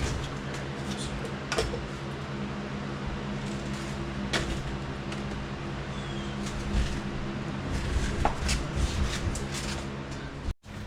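Scattered knocks and clanks of parts and tools being handled during the work, over a steady machine hum.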